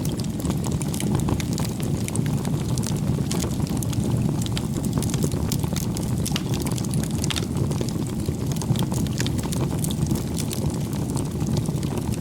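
Wood bonfire burning with a steady low rushing roar and frequent sharp crackles and pops scattered throughout.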